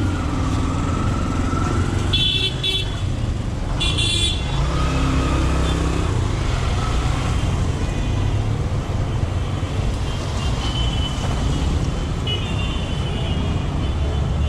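Road traffic: cars and motorcycles with a steady engine rumble, and car horns honking briefly about two and four seconds in, then more honking in the second half.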